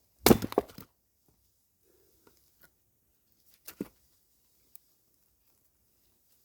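Firewood being split with an axe: a loud cluster of knocks and wooden clatter near the start, then a single softer knock about three and a half seconds later.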